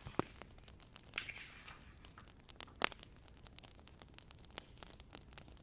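Wood fire crackling, with scattered small snaps and a sharp pop about three seconds in, and a brief hiss just after a second in.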